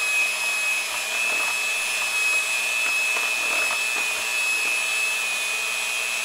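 Electric mixer running steadily with a high whine, beating egg yolks and sweetened condensed milk together.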